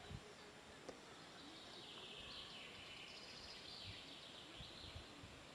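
Quiet outdoor ambience in mountain spruce forest, with faint bird song from about two seconds in to near the end and a soft low bump at the start, likely wind or handling on the microphone.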